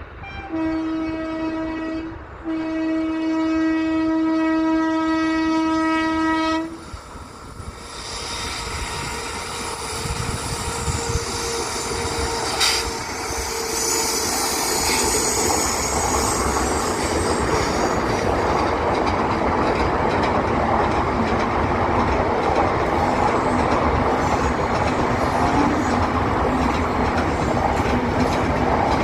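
Indian Railways train horn sounding twice, a short blast and then a longer one of about four seconds, on one steady pitch. The train then comes up and passes: a rising, sustained rumble of wheels on rail with clickety-clack and high wheel squeal on the curve.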